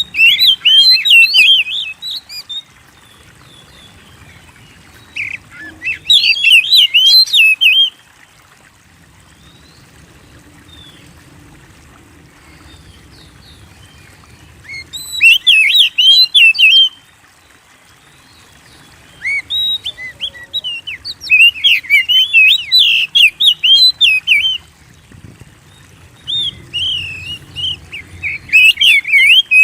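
Oriental magpie-robin (kacer) in full song: bursts of quick, varied whistled phrases, each a few seconds long, broken by pauses of a few seconds.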